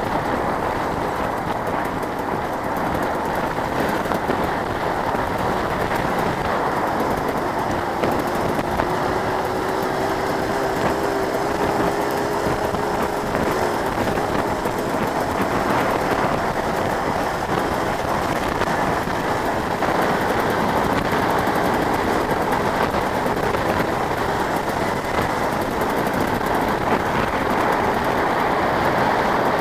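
Motocross bike engines running together in a dense, rattly din. About a third of the way in, one engine's pitch holds and climbs slightly for several seconds, then drops.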